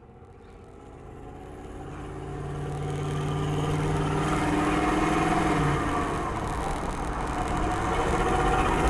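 GM 6.5-litre turbo diesel V8 in a Toyota Land Cruiser accelerating under load. The sound grows steadily louder, with a steady engine note that breaks off about halfway through.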